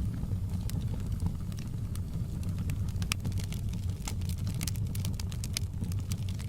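Wood fire burning in a fireplace: a steady low rumble with frequent sharp crackles and pops, coming thicker in the second half.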